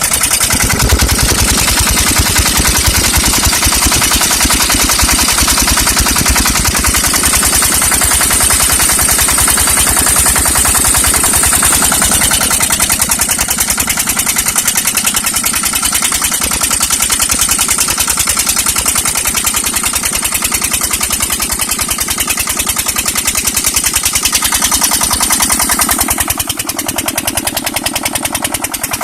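Kirloskar 10 hp single-cylinder diesel engine running steadily, with a fast, even beat of loud exhaust pulses. The sound drops in level briefly near the end, then picks up again.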